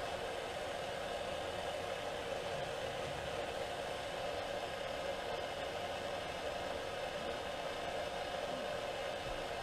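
Handheld gas torch burning steadily, a constant hiss with no breaks, as used to heat copper fittings for soldering.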